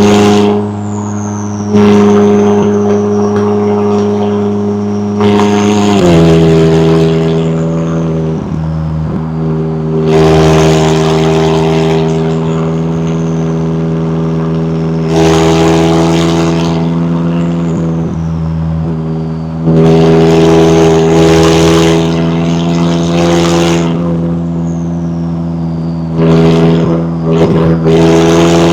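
McLaren 570S twin-turbo V8 under way at fairly steady revs. It shifts up to a lower engine note about six seconds in. Repeated louder surges with a rushing hiss come through, several of them followed by a thin high whistle falling in pitch.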